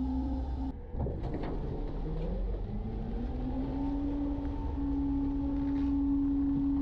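Garbage truck's engine revving up under load as the packer runs, with a steady whine that rises slightly and then holds, growing louder towards the end.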